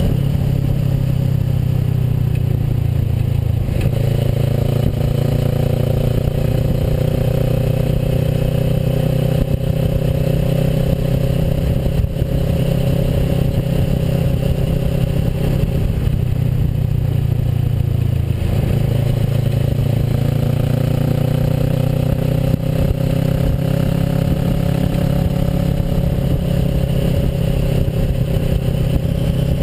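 Kawasaki Versys motorcycle engine running under way, its pitch dipping and rising twice with throttle changes.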